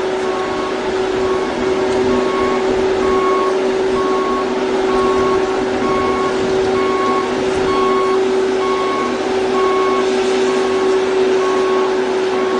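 Heavy machinery running steadily, with a reversing alarm beeping about twice a second.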